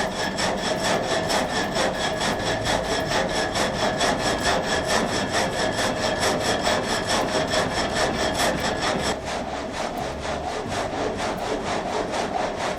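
Water-powered vertical frame saw cutting timber: a steady, rhythmic rasp of the blade repeating at an even, quick pace, easing a little after about nine seconds.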